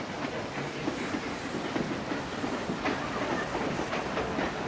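Passenger cars of a steam-hauled train rolling past close below, a steady rumble with occasional clicks of the wheels over the rail joints.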